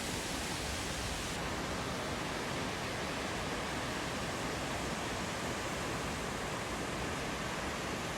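Steady roar of the Ouzoud waterfalls, an even rushing noise of falling water with no breaks.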